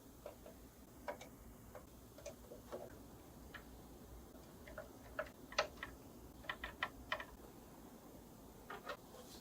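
Light, sharp clicks and taps at irregular intervals, some in quick clusters, from hand work on a cello under restoration.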